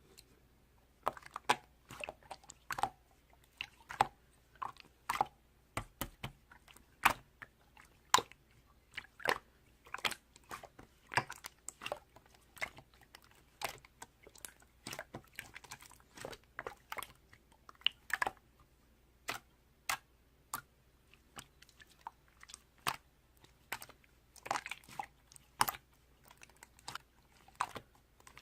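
Crisp crunching of an orange carrot being bitten and chewed: irregular sharp snaps, about one or two a second.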